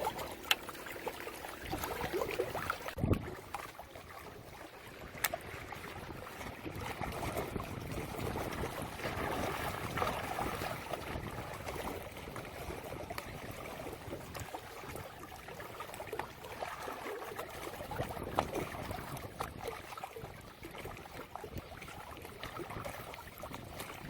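Water lapping and trickling at the shoreline, a steady wash of noise with a few light clicks.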